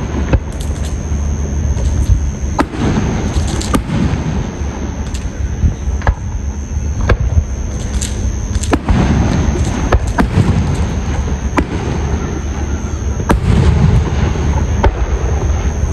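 Fireworks display: a dozen or so sharp bangs of bursting shells at irregular intervals over a continuous low rumble, with a steady high-pitched tone underneath.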